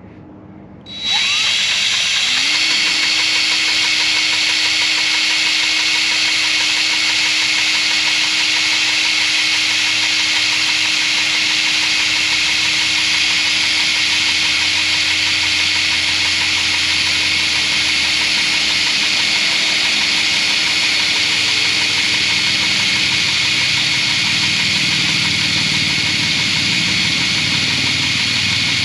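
Power drill spinning up about a second in and then running steadily, drilling out holes in a metal channel piece after a guide hole.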